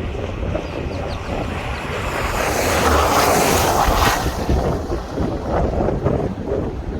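Strong wind buffeting the microphone with a deep rumble, swelling into a louder gust about two seconds in that eases off after about four seconds.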